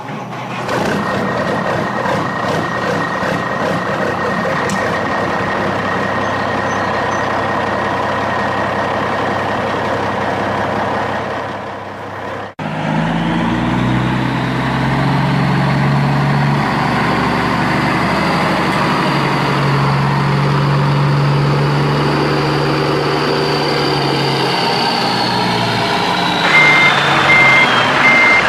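Engine sound effects from toy vehicles. One steady engine sound gives way after a short break to a different, lower engine sound, and an evenly pulsed reversing beeper starts near the end.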